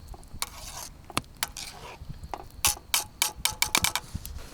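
Pine-log campfire crackling, with scattered sharp pops and a quick run of loud snaps about two and a half to four seconds in.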